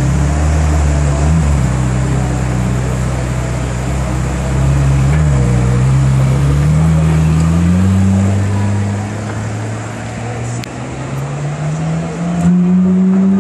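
Ferrari 458's 4.5-litre V8 idling with a low, steady note. The note then rises gradually as the car pulls away slowly, and climbs again near the end.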